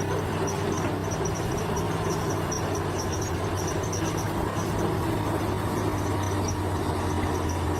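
Bulldozer's diesel engine running steadily, with a high, rapid chirping over it.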